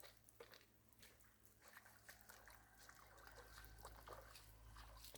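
Near silence: a faint low hum with scattered light ticks and clicks.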